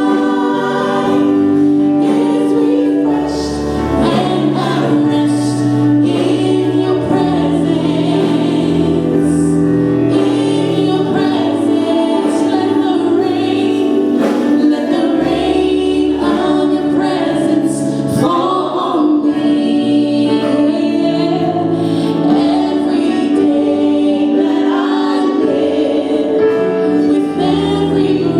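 Praise and worship team singing a gospel-style worship song together, with instrumental accompaniment of held chords and a moving bass line, at a steady level without a break.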